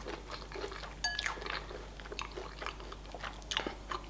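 Close-up chewing of crispy fried chicken wings: a run of small crunches and crackles from the breaded coating.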